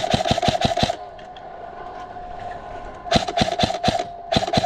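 Krytac Trident MKII CRB-M electric airsoft rifle firing full-auto bursts, the gearbox whine under rapid clacking shots at about eight a second. One burst stops about a second in, and two shorter bursts follow after about three seconds and near the end.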